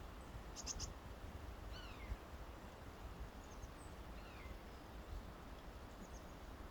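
Wild birds calling sparsely: a few short, high call notes, some sliding downward, over a low steady rumble of wind on the microphone.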